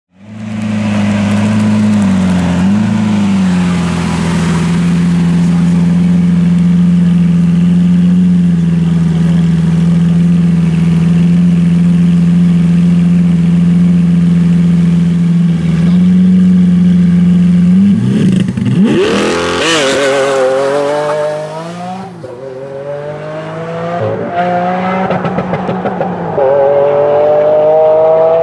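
Lamborghini Aventador LP700-4's naturally aspirated V12 engine holding a steady raised rev at the start line for about eighteen seconds, with a short blip about two seconds in. It then launches and accelerates hard, its pitch climbing and dropping through several quick upshifts as the car pulls away.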